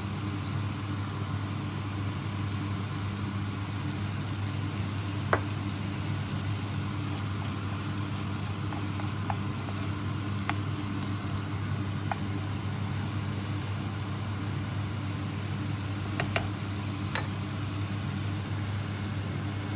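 Tomato and green-chili masala sizzling as it fries in a pan: a steady frying hiss over a low hum, with a few light ticks scattered through it.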